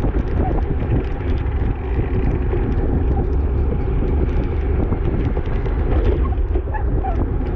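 Wind rushing over the microphone of a camera carried by a cyclist at racing speed, a steady low rumble with small ticks and rattles from the bike and wet road.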